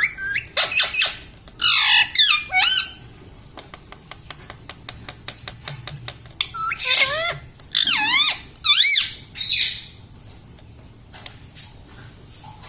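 Ring-necked parakeet giving loud, wavering squawking calls that sweep up and down in pitch, in two bouts with a run of quick clicks between them.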